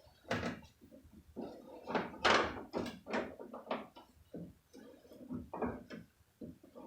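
Irregular clunks, knocks and scraping from a pickup truck's door as the door glass and its loosened regulator are worked down the window track, with one louder, longer scrape about two seconds in.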